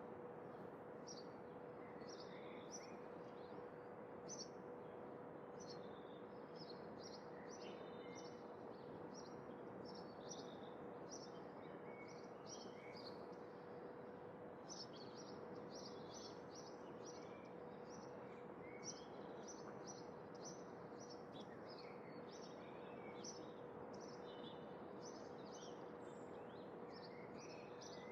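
Small birds chirping in many quick, short calls over a faint, steady hiss, with a thin steady hum beneath.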